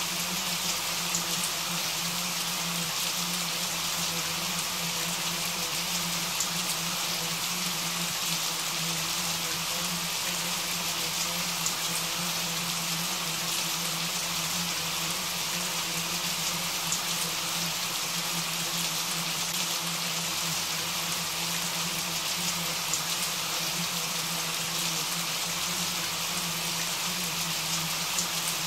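Steady rain falling: a continuous even hiss sprinkled with small drop ticks, over a faint steady low hum.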